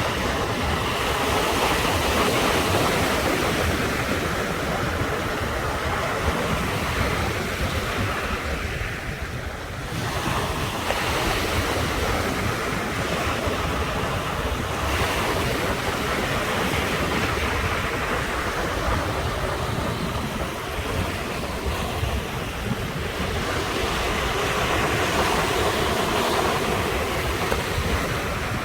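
Sea waves breaking and washing ashore in a continuous surf, swelling and easing, with a brief lull about a third of the way in.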